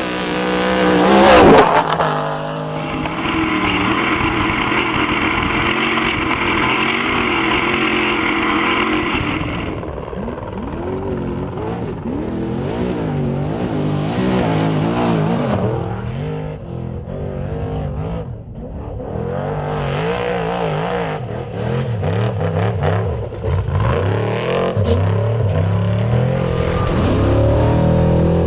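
Off-road race truck engines revving hard, their pitch rising and falling again and again as they accelerate and pass, with a loud surge about a second in.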